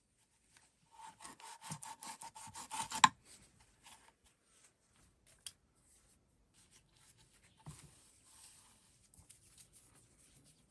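A hand tool working wood: quick rhythmic rubbing strokes, several a second, for about two seconds, ending in a sharp knock, then a few faint scattered taps.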